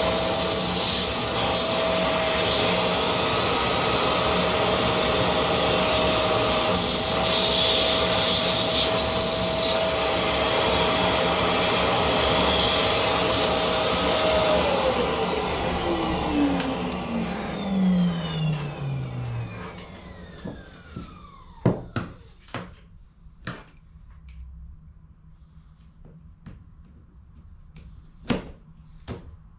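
Vacuum cleaner motor running steadily with a high whine, switched off about halfway through and spinning down with its pitch falling over several seconds. After it stops come a few sharp clicks and knocks.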